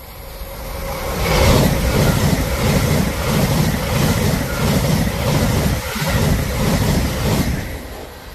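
LNER Azuma passenger train passing at speed: a rising rush of wheels on rail and air, with a regular beat about twice a second as each carriage goes by, then fading near the end.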